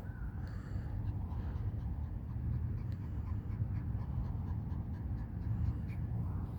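Small dog panting over a steady low rumble, with faint short ticks.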